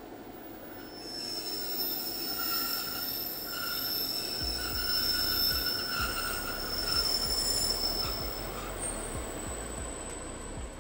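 Class 60 diesel locomotive and its train of covered hopper wagons passing slowly, with several high, sustained metallic squealing tones from the running gear for most of the passage. The locomotive's low rumble comes in about four seconds in.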